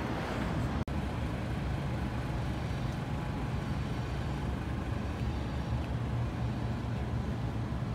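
BMW R1250RS's boxer twin engine running with a steady low drone. The sound drops out for a split second just under a second in.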